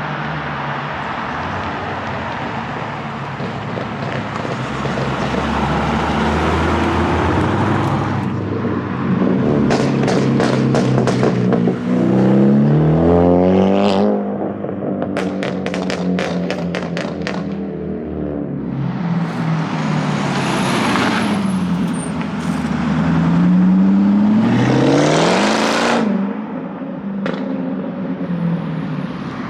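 Modified cars driving past one after another, engines revving up in rising sweeps twice. Between about nine and eighteen seconds in come runs of rapid, sharp pops.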